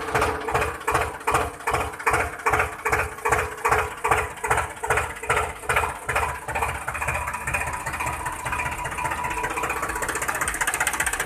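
Small model engine of a mini diesel-engine water pump running, chugging in regular beats about three a second. About six seconds in, the beats speed up into a quicker, steadier buzz.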